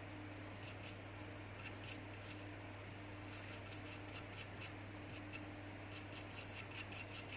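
Light, irregular scratching and ticking of a small hand tool working over a phone circuit board as it is cleaned, over a steady low electrical hum. The scratching thins out for a couple of seconds in the middle, then picks up again.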